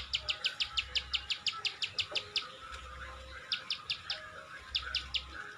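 Ciwah bird calling: a fast series of sharp, high clicking chips, about eight a second, for the first two and a half seconds, then after a pause two short bursts of about four chips each. Fainter chirping from other birds or insects runs underneath.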